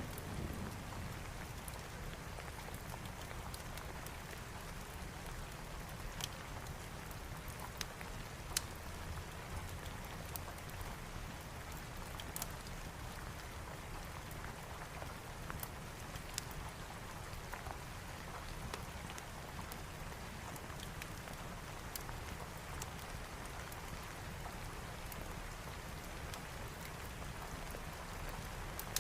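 Steady rain falling, with scattered sharp pops of a wood fire crackling every few seconds. The last of a low thunder rumble dies away right at the start.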